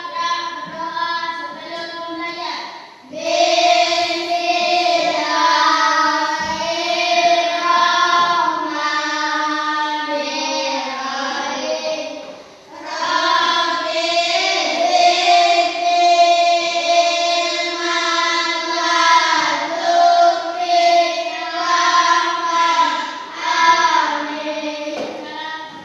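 A group of children singing a song together in unison, in long held phrases with brief pauses between them.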